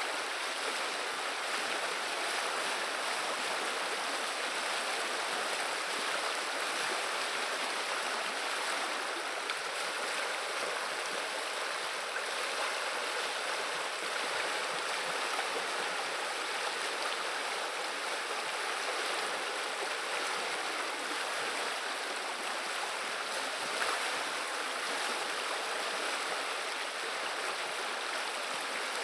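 River water running: a steady babble and rush of flowing water, even throughout, with little deep rumble.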